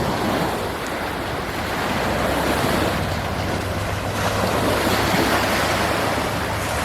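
Surf from the Gulf of Mexico washing steadily onto a sandy beach, with wind buffeting the microphone as a low rumble that grows stronger a couple of seconds in.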